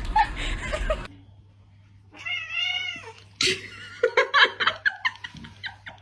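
A domestic cat meowing: one drawn-out meow that rises and falls in pitch about two seconds in, then a run of shorter cries.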